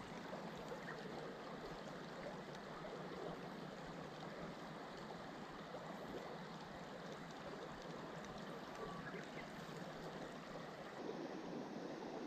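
A mountain stream flowing: a faint, steady rush of running water.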